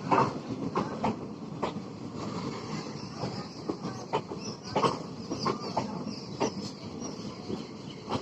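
Tapti Ganga Express passenger coaches rolling into the station, the wheels knocking irregularly over the rail joints over a steady rumble. A faint high wheel squeal comes in about halfway through.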